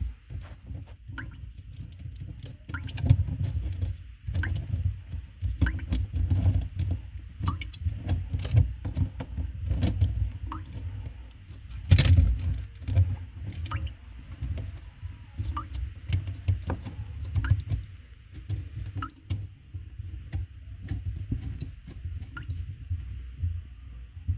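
Small irregular clicks and taps of a fridge water line and its compression fitting being handled and fitted onto a faucet supply adapter, with a louder knock about halfway, over the rumble of hands moving close to the microphone.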